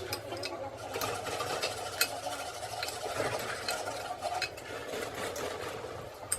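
Scratchy scraping and a run of sharp clicks from hand work on metal parts of a diesel injection pump, over a steady low hum.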